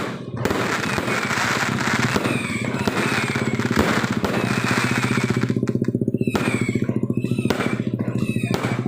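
Fireworks crackling and popping in a dense, continuous hash, with a few falling whistles. A steady low drone with a fast even pulse runs underneath.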